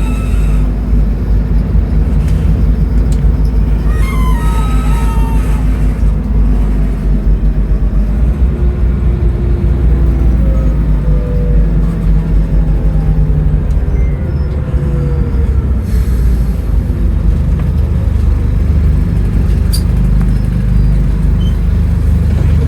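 Scania N310UA articulated city bus running, a steady low engine rumble with a few thin whining tones that slide in pitch, first about four seconds in and again through the middle.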